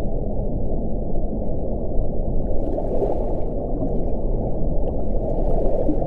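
Wind blowing in a steady low rumble, swelling briefly about three seconds in and again near the end.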